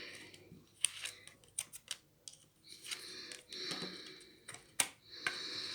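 Lenormand fortune-telling cards being handled: rustling as they are shuffled or drawn, with several sharp clicks of cards snapping or being laid down.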